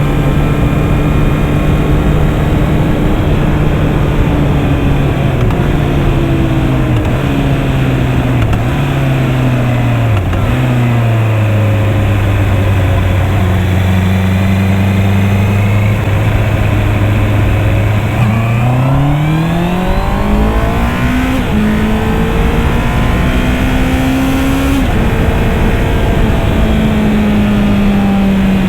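Honda CB650R's inline-four engine under way: revs step down with each downshift over the first third, hold low and steady for several seconds, then climb hard about two-thirds through as the bike accelerates, with a few quick upshifts and a drop in revs near the end. Steady wind noise runs underneath.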